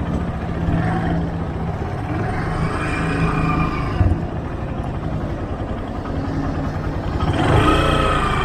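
Motorcycle engine running at low revs while the bike is ridden slowly through a U-turn, its pitch shifting slightly up and down as the throttle and clutch are worked.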